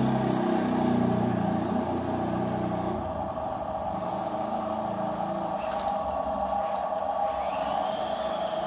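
Small electric motor and plastic gearbox of a toy RC truck, running with a steady whine, and a deeper hum that fades after about three seconds.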